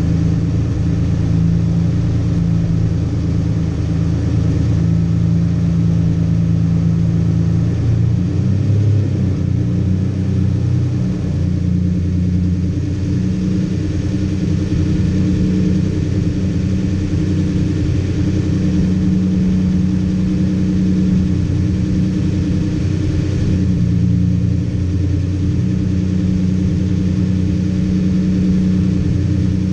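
Lamborghini Diablo SE30's mid-mounted V12 idling steadily, heard close up through its rear engine cover. Its pitch shifts for a few seconds about a third of the way through as the car creeps forward in the queue.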